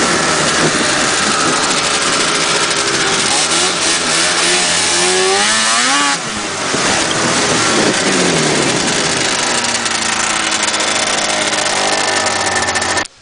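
Two-stroke engine of a 1979 Ski-Doo Blizzard 7500 Plus snowmobile running on a ride, its pitch rising and falling with the throttle. About six seconds in it revs up sharply and drops back. The sound cuts off abruptly near the end.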